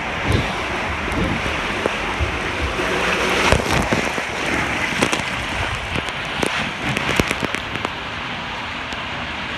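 Water rushing and splashing down a water slide, a steady hiss broken by scattered knocks and splashes.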